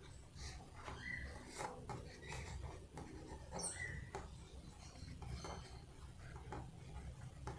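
Faint rubbing and rustling of a felt strip being rolled up by hand, with several short, faint squeaks spread through.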